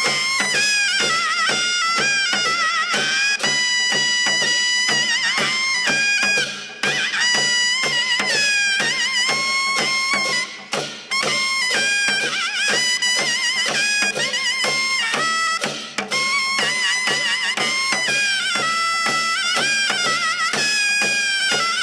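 Korean traditional shaman-ritual music led by a shrill double-reed wind instrument playing a high, wavering melody with quick ornaments and vibrato, over a steady drum beat.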